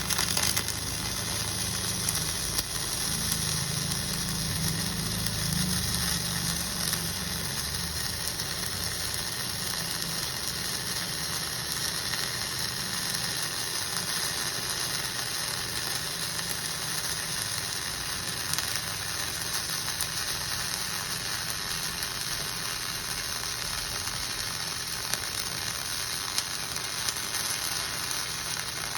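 Flux-cored welding arc striking and then running steadily in a continuous crackling sizzle with small sharp pops, as a filler pass is laid on a vertical fillet (3F) T-joint.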